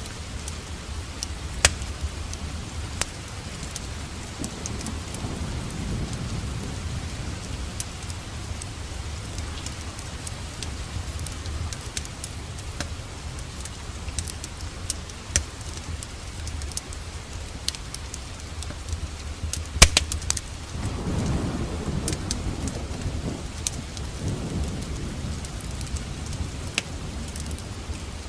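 Steady rain with a low rumble underneath, scattered sharp crackles and pops of a wood fire, a quick cluster of loud pops about two-thirds of the way in, and a low rolling swell of distant thunder just after it.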